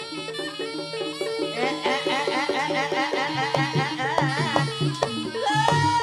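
Live Javanese jaranan ensemble music: drums and tuned gong-chime percussion play a steady repeating pattern under a wavering reed-wind melody.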